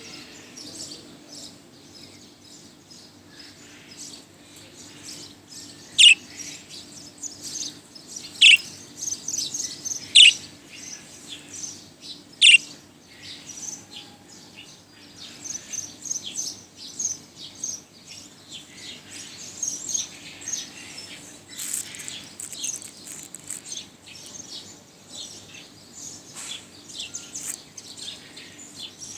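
Budgerigar chattering and warbling, a steady stream of quick chirps with four loud, sharp calls about two seconds apart starting some six seconds in.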